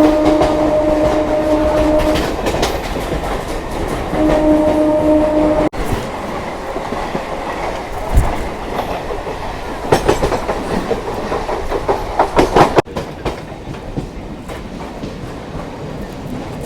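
Electric local train running at speed, its wheels clattering over rail joints and points in quick clusters of clicks. A train horn sounds a steady held blast at the start and again for about a second and a half around five seconds in.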